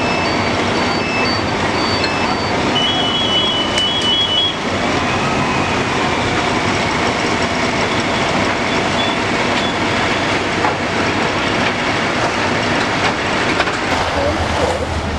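Steady, loud rumbling of heavy machinery running, with a few short high electronic beeps in the first four seconds.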